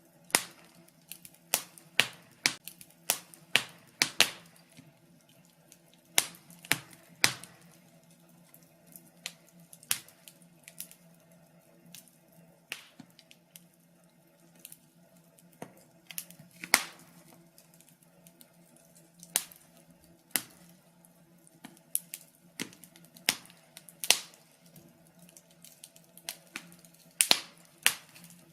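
Wood fire in a fireplace crackling, with irregular sharp pops and snaps that come thick and fast for the first several seconds and then more sparsely.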